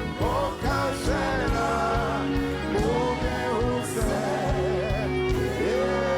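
Live gospel worship music: a singer's wavering, melismatic vocal runs over held keyboard chords, a bass line and a steady drum beat.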